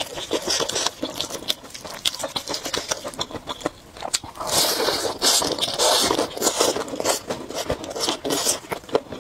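Close-miked biting and chewing of crispy fried chicken: irregular wet mouth clicks and crunches, with louder crunchy bites about four and a half and six seconds in.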